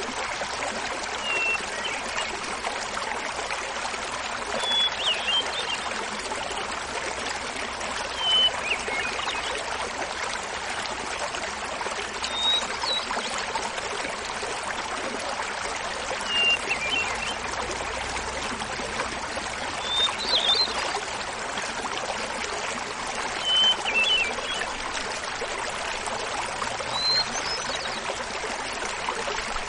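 Small mountain waterfall splashing steadily, with a hermit thrush singing short flute-like phrases every three to four seconds, each phrase pitched differently from the last.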